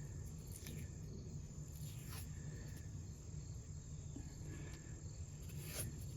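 Quiet background: a steady low rumble with a faint, steady high-pitched tone and a few soft clicks, about a second in, around two seconds and near the end.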